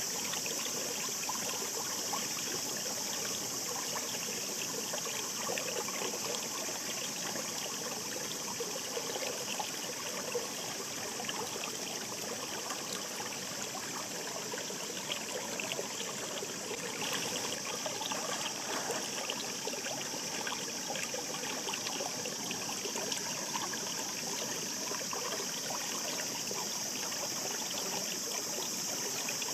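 A shallow mountain river babbling steadily over stones, with fine trickling and splashing throughout.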